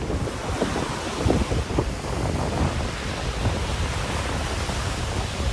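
Wind buffeting the microphone in a low rumble, over the wash of Lake Huron waves on the shore.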